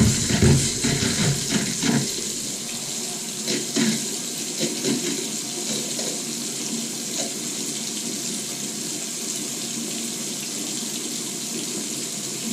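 Household faucet running with air in the line, spitting and sputtering in loud irregular bursts for the first couple of seconds, a few more around four seconds in, then settling into a steady flow as the air is purged after the water heater tank was refilled.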